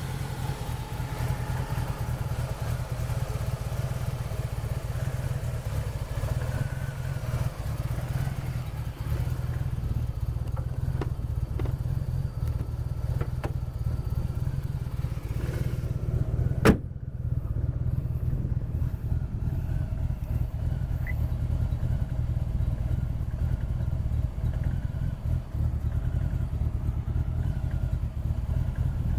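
Toyota Supra's 2JZ-GTE twin-turbo straight-six idling steadily through an aftermarket front pipe and muffler. There is a single sharp click about two-thirds of the way through.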